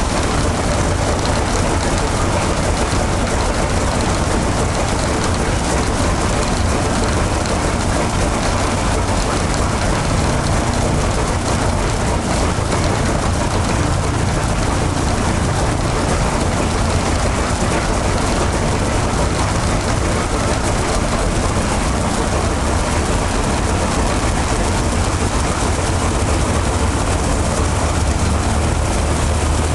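Ilyushin Il-14's left engine, a Shvetsov ASh-82T fourteen-cylinder radial, running steadily during a ground run-up, a loud, even rushing noise with a low hum.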